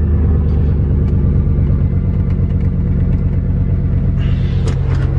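Pickup truck engine idling as it warms up, a loud, steady low rumble with an even pulse.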